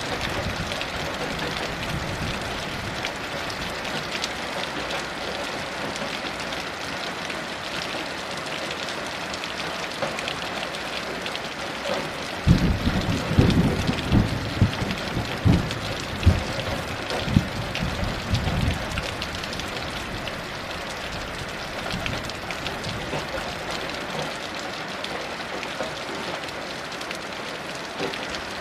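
Steady heavy rain falling. About halfway through, a rumble of thunder rolls in for several seconds in uneven surges, then fades back under the rain.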